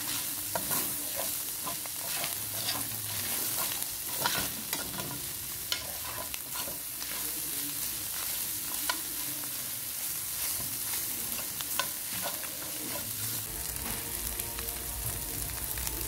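Salt fish, onion and scallion sizzling in hot oil in a stainless steel pan, with repeated scrapes and clicks of a utensil stirring through it as it sautés.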